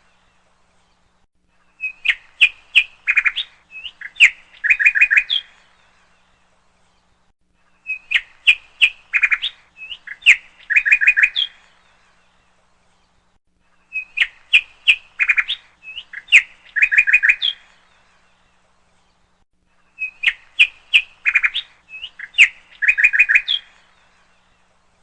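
A songbird's phrase of sharp chirps and quick trills, about four seconds long, repeated the same way four times at even six-second intervals with dead silence between, like a looped bird-song recording.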